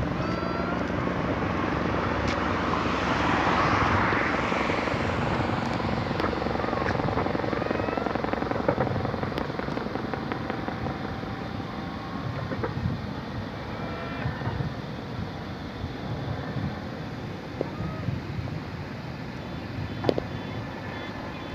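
Busy road traffic running steadily, swelling about three to five seconds in as a vehicle passes close, then slowly easing. A couple of sharp clicks come later.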